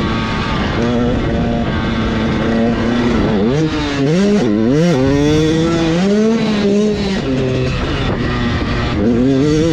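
Dirt bike engines revving on a motocross track, the pitch climbing and dropping repeatedly as the riders open and close the throttle, with more than one bike heard at once in the middle.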